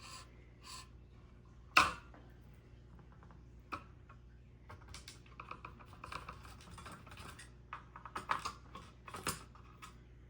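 Ceiling fan parts being handled on a table: a sharp click about two seconds in, then a run of light, irregular clicks and rattles of small metal pieces.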